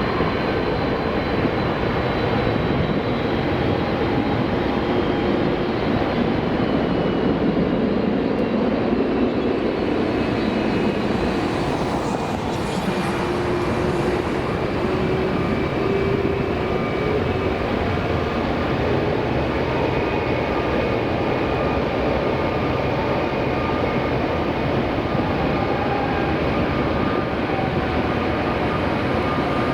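Jet airliner engines running with a steady roar and thin whining tones that drift slowly in pitch.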